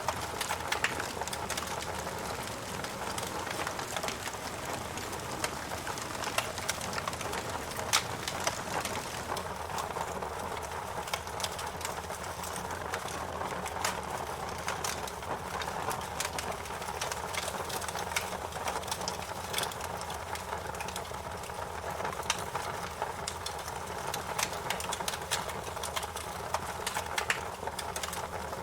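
Wood fire in a fireplace crackling: a soft steady hiss with frequent irregular sharp pops and snaps. The loudest pop comes about eight seconds in.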